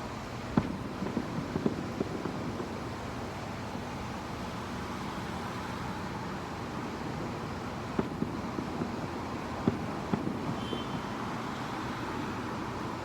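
Fireworks popping and crackling in the distance, muffled through a window, in two clusters: one just after the start and another from about eight seconds in. Under them runs a steady background rumble.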